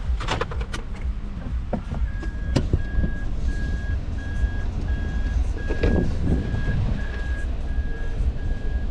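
Truck engine running with a steady low rumble while an electronic warning beeper starts about two seconds in and repeats at about two beeps a second, typical of a vehicle reversing alarm. A few knocks are heard early on and near the middle.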